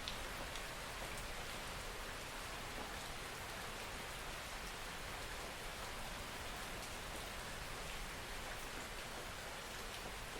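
Steady rain falling, a soft even hiss with scattered drops pattering on a surface.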